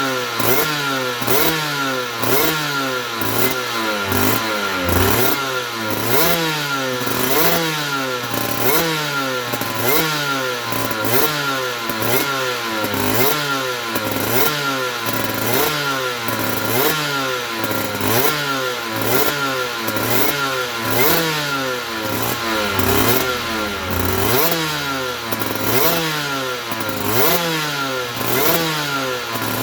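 Aprilia RS125's single-cylinder two-stroke engine being revved in short blips, again and again: the pitch rises quickly and falls back about once a second.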